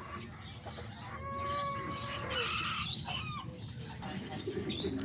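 Aviary birds calling: one long, held call from about a second in that drops in pitch at its end, followed by shorter chirps and squeaks.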